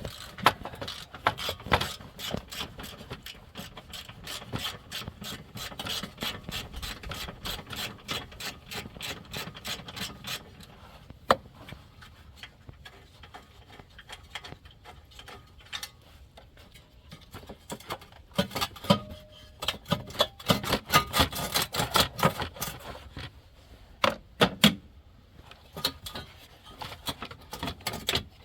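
Rapid clicking and rubbing of hand tools and parts being worked on the battery tray in a car's engine bay. The sound comes in two busy stretches with a quieter spell in the middle.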